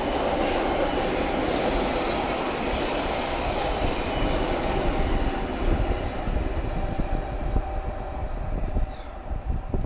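Class 159 diesel multiple unit pulling out of the station, with a high wheel squeal for a couple of seconds near the start, then its running noise fading as it draws away.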